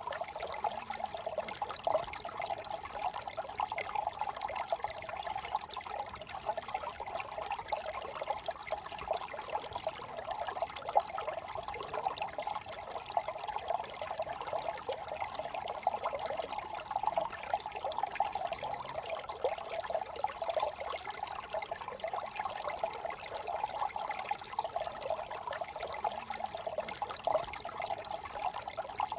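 Small brook trickling and babbling over stones, a steady flowing water sound.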